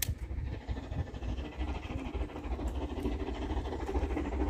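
A sharp click, then the rumble of an approaching train, growing gradually louder.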